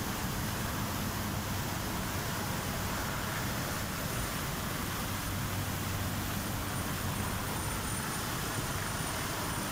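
Floodwater rushing in a steady, loud roar.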